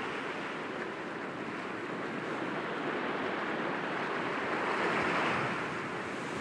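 Sea waves breaking gently against rocks: a steady wash of surf that swells about five seconds in and then eases.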